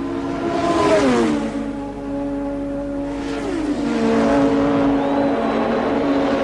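1984 Formula One race cars' engines running at high revs and passing by, twice in quick succession; each pass brings a swell and a falling drop in engine pitch.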